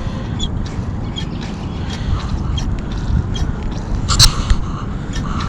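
Primer bulb of a Stihl BG55 two-stroke handheld blower being pressed over and over, a string of small faint clicks, before a start. One short, sharp, louder rasp about four seconds in, over a low steady rumble.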